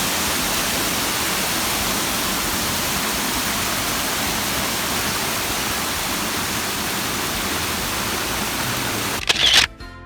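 Waterfall rushing: a steady, even roar of falling water that cuts off abruptly about nine seconds in, followed by a short louder burst.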